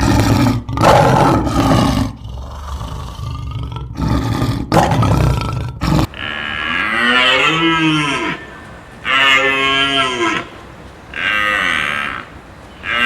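A loud, rough noise with a low rumble for about six seconds, then, after a cut, cattle mooing: three calls about two seconds apart, each rising and falling in pitch.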